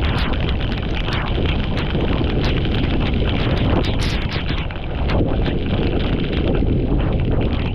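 Floodwater rushing and splashing steadily down a cleared drain, with frequent sharp splashes.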